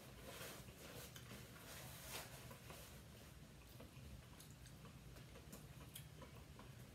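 Near silence with faint chewing of a soft white-bread sandwich and scattered small mouth clicks, and a paper towel rustling in the first couple of seconds.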